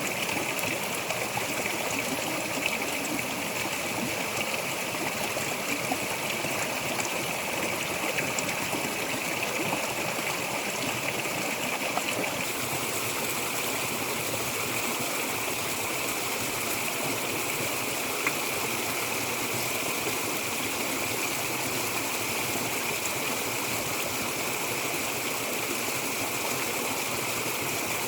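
Steady rush of running water, even and unbroken, with a slight change in tone about twelve seconds in.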